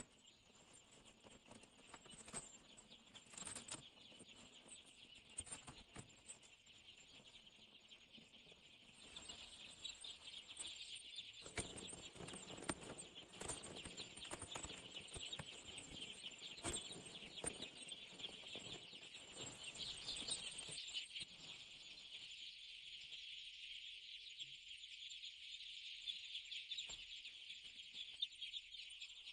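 A crowd of young chicks peeping continuously in a dense high chatter, with scratching and pattering from their feet and pecking. The peeping grows fuller after about nine seconds, and the scuffling dies away near the end.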